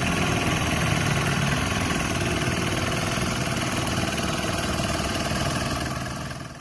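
Engine of a grass trimmer (brush cutter with nylon line) running steadily, fading out near the end.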